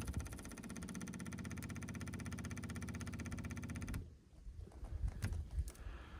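A vehicle's fuel pump running to prime the fuel system, a fast, even pulsing hum that cuts off suddenly about four seconds in. A few light knocks follow.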